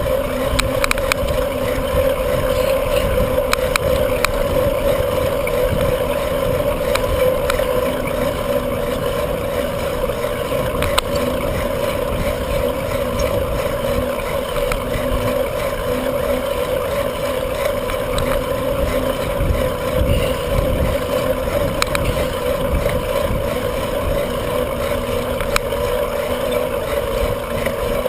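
Wind buffeting the microphone and tyre noise of a bicycle riding along steadily, with a steady mid-pitched hum and scattered small clicks and rattles.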